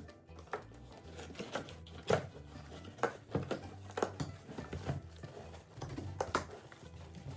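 Irregular light clicks, taps and knocks of small objects being handled, a few a second, over a faint steady low hum.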